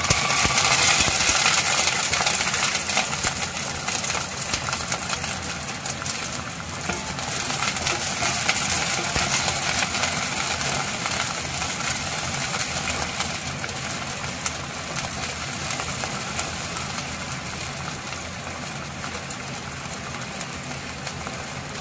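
Green peas sizzling and crackling in hot oil in a pot, loudest as they go in and slowly dying down.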